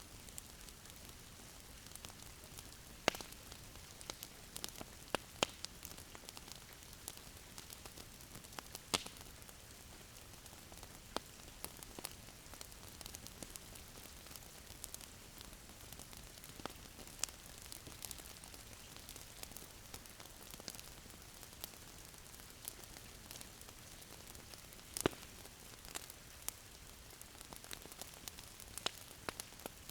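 Wood fire crackling in a fireplace: a soft steady hiss with irregular sharp pops and snaps, a few louder pops standing out.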